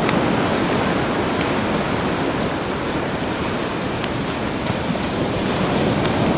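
Sea surf washing in a continuous rush that swells and eases, with a campfire's occasional sharp crackles and pops over it.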